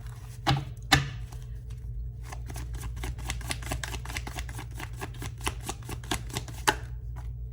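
A deck of tarot cards being shuffled by hand: a quick run of many small card clicks, with a few sharper taps, one near the start and one close to the end.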